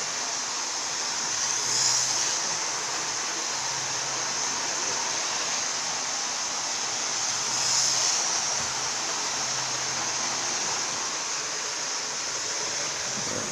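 Model train running around a track loop, a steady whirring rattle from its motor and wheels on the rails that swells as it passes close by, about two seconds in and again near eight seconds.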